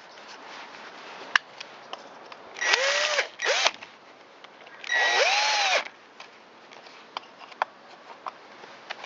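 Cordless drill-driver run in three short spurts, about a second or less each, the motor winding up and back down in pitch each time, with small clicks and taps of parts being handled between them.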